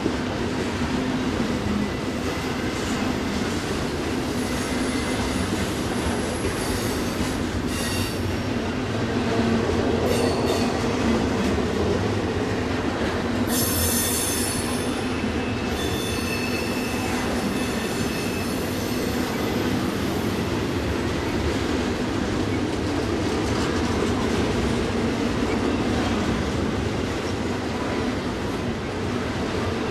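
A long container freight train's cars rolling past with a steady rumble of steel wheels on rail. Brief wheel squeals come through a few times, the strongest a high, ringing squeal lasting about two seconds around the middle.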